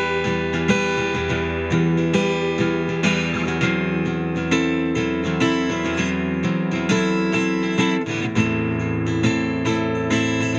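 Dean Exhibition thin-body acoustic-electric guitar playing an instrumental piece: a steady run of picked and strummed notes, about two attacks a second, each ringing on under the next.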